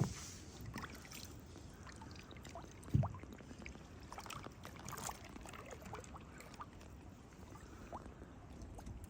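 Kayak paddling on calm river water: faint drips and small splashes from the paddle, with two short low thumps, one right at the start and one about three seconds in.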